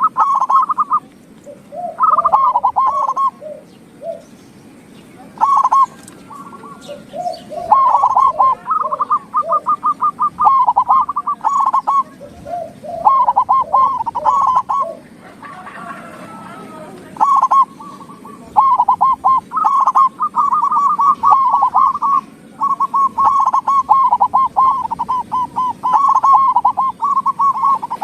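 Zebra doves (perkutut) singing: repeated phrases of quick staccato coo notes, with short pauses between phrases and some overlapping lower notes from a second bird.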